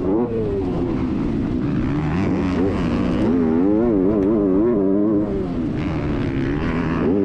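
Motocross bike engine revving, its pitch rising and falling over and over as the throttle is worked.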